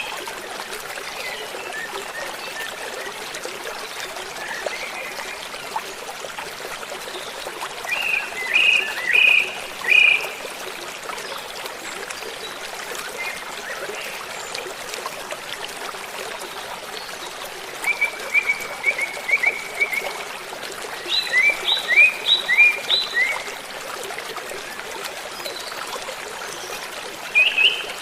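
Small birds giving short runs of quick, high chirps a few times over the steady rush of a running stream.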